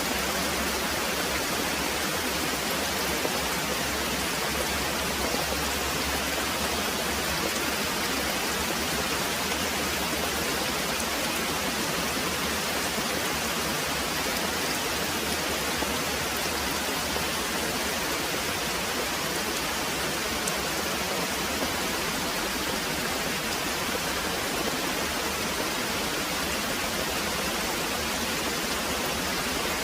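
Very heavy rain pouring steadily, an even, unbroken hiss.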